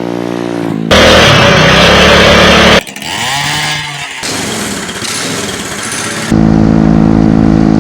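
A run of short spliced clips of a small engine running, with hard cuts between them: a steady run, a much louder full-throttle stretch, a stretch where the pitch rises and falls as the throttle is worked, and a steady loud run again.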